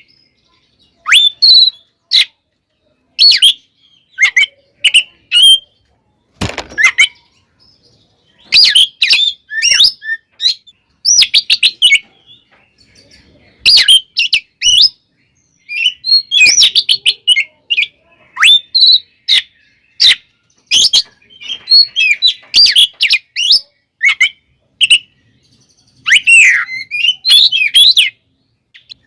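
Oriental magpie-robin singing hard in its aggressive fighting style: loud bursts of sweeping whistles and rapid, sharp stuttering notes, broken by short pauses. About six seconds in there is one harsher, noisier burst.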